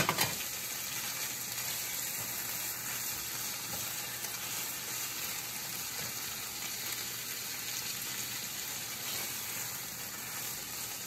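Chicken pieces and stir-fry vegetables sizzling steadily in hot oil in a saucepan while being stirred with a silicone spatula. One sharp knock at the very start.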